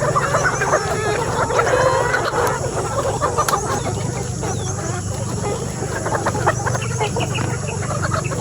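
A flock of Brown Nick and Black Nick laying hens clucking and calling, many birds at once in short overlapping calls, over a steady low hum.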